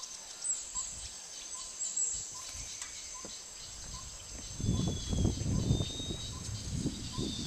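Rainforest ambience: insects keeping up a steady high whine while a bird repeats a short note about once a second. About halfway through, a low rumble comes in and runs under it.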